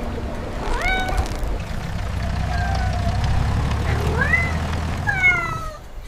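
A cat meowing three times, each call rising and then falling in pitch, over a steady low rumble.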